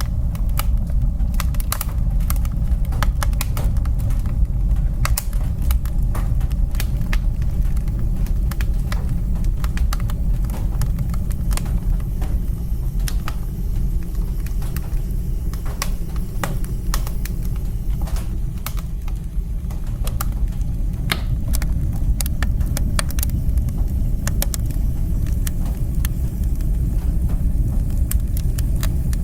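Wood fire crackling in a fireplace: irregular sharp pops and snaps throughout, over a steady low rumble.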